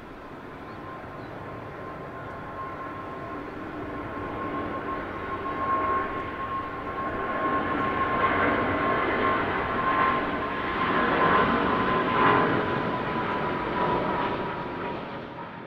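Twin jet engines of a Boeing 777-200 airliner at take-off thrust, growing steadily louder as it climbs out, with a steady whine under the engine noise. The sound cuts off suddenly at the end.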